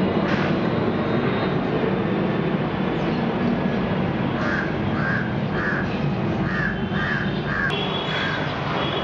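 Bird calls: a run of short, clipped notes, about two a second, starting about halfway through, with a few more near the end. They sound over a steady low background noise.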